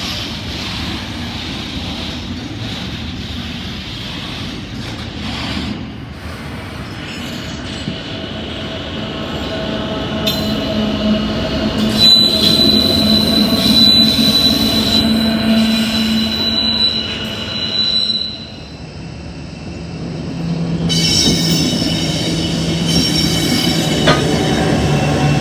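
Container freight train rolling past on jointed track, with diesel-electric locomotives running by in the second half. Partway through, a shrill, steady wheel squeal sets in for about six seconds over the drone of the locomotive engines, then breaks off, and the engines carry on.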